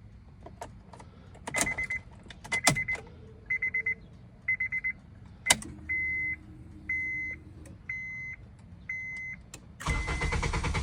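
Key clicks and eight short warning chimes from a Honda Accord's dashboard, about one a second, the first four buzzy and the last four clean. Near the end the starter begins cranking the engine with a steady rhythmic churn, a car that cranks but will not start.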